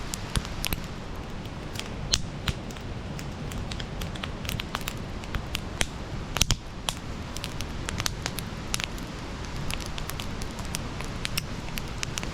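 Wood campfire crackling, with irregular sharp pops and snaps over a steady low rumble of burning. A few louder pops come about two seconds in and again about six and a half seconds in.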